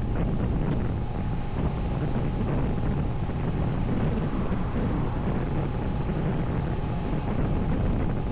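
Wind rushing over the camera microphone over the steady hum of a Moto Morini 6½ Scrambler's parallel-twin engine, cruising at an even speed.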